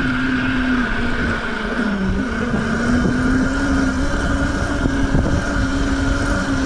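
A mini bike's small engine runs steadily under way, its pitch dipping briefly about two seconds in and then recovering, with wind rushing past.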